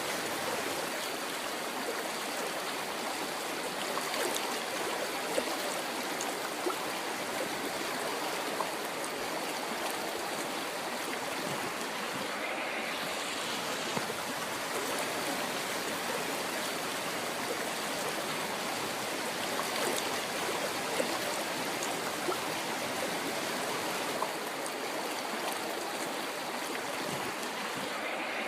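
River water flowing over rocks: a steady rush with small splashes and gurgles coming through.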